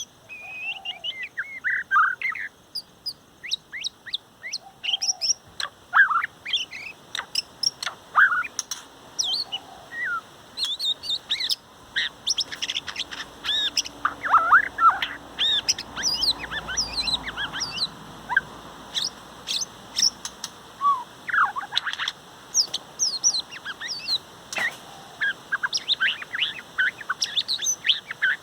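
Male shama singing a long, varied song: rapid whistles, chirps and sweeping notes in quick phrases with short gaps between them.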